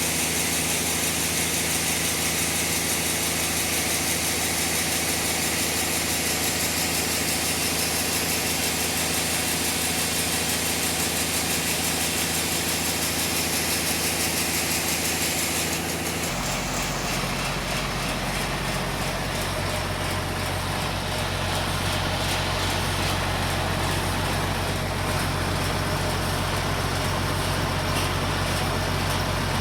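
Sawmill machinery running steadily with a constant engine drone. About sixteen seconds in, the sound changes abruptly to a deeper drone.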